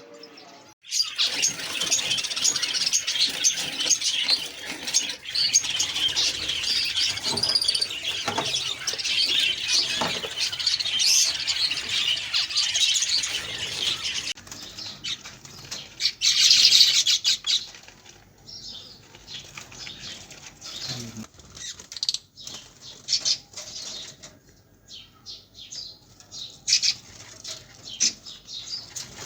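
Many caged birds chirping and twittering together, with wings fluttering. For the first half the chirping is dense and loud; after that it thins to scattered calls and short rustles, with one loud burst of chirping about sixteen seconds in.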